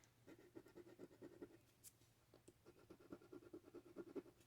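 Faint rapid scratching on a scratch-off lottery ticket, in two bouts with a short pause in between, as letters are scratched off the play area.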